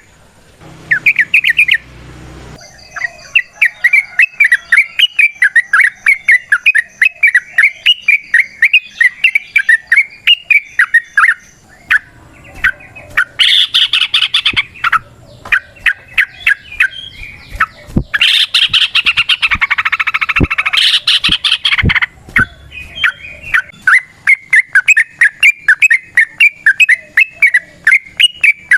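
Yellow-vented bulbul (trucukan) singing a long rapid 'ropel' song: fast runs of repeated chirping notes that keep going with short breaks, growing louder and fuller in two stretches in the middle.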